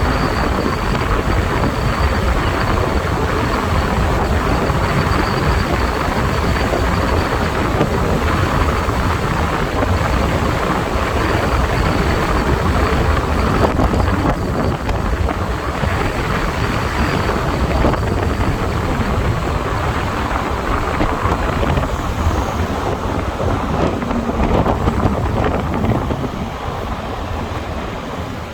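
Motorbike riding on the road: wind buffeting the microphone over steady engine and road noise, easing a little near the end.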